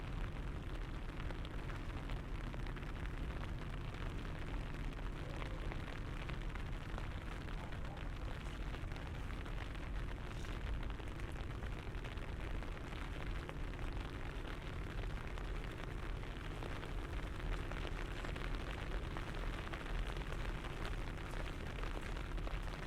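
Steady rainy outdoor ambience: a deep, even rumble beneath a dense fine patter of light rain tapping on an umbrella.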